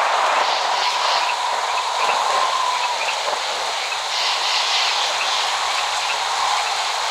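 Steady rain falling, an even hiss with no thunder, with a few faint high chirps over it.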